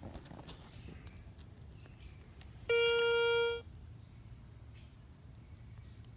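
Metal detector giving one steady electronic target tone, lasting just under a second, about three seconds in, over faint outdoor background noise.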